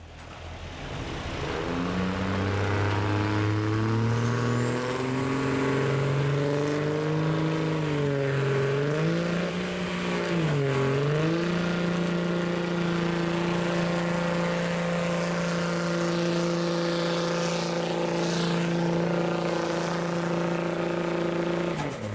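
Diesel 4x4 pickup truck engine under full load in a sled pull. It revs up over the first several seconds with a high whistle rising alongside it, dips in pitch twice, then holds steady at high revs until it stops abruptly near the end.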